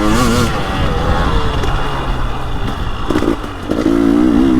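KTM 300 XC-W Erzberg's single-cylinder two-stroke TPI engine running under a rider, its pitch rising and falling with the throttle. It eases off a little after three seconds and picks up again near the end.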